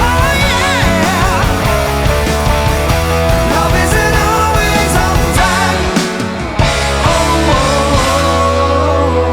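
Full rock band playing the closing section of a song, with wavering lead lines over drums and bass. After a brief break about six seconds in, the band lands on a long held chord near the end.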